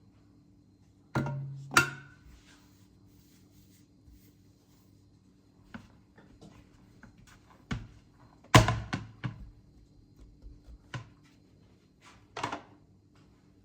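Scattered knocks and clunks in a small room: two about a second in, the loudest about eight and a half seconds in, with fainter taps between and after.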